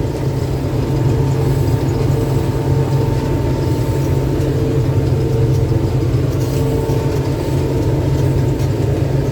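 Combine harvester running steadily while combining winter barley: a constant engine drone with a few steady higher tones from the machinery.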